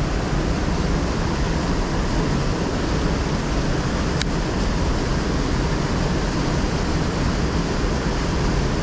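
Steady rush of river water flowing through rapids, with a single faint click about four seconds in.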